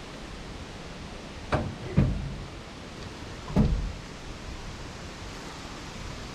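Steady wind noise, with three sharp knocks about 1.5, 2 and 3.5 seconds in.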